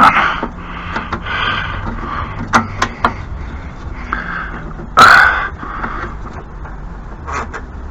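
A man grunting and breathing hard under strain while fiddling with small parts, with a few sharp clicks; a louder grunt about five seconds in.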